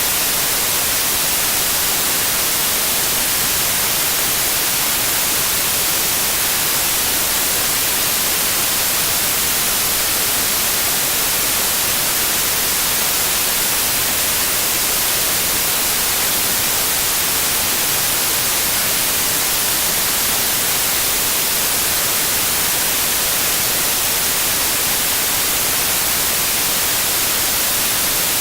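Steady generated white noise, an even hiss that is strongest in the highs, with a 528 Hz 'solfeggio' tone mixed faintly underneath.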